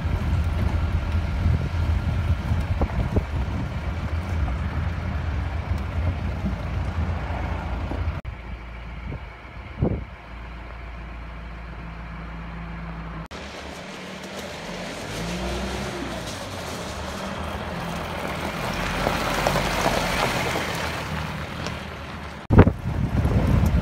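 Mahindra Roxor side-by-side engine running while driving, with a steady low drone and rough road noise. The sound changes abruptly several times, dropping quieter about eight seconds in and shifting again near thirteen seconds and near the end.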